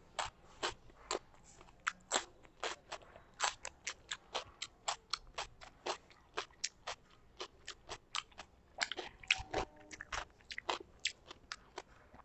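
Close-miked mouth sounds of someone eating: wet lip smacks and clicks of chewing, about three or four a second.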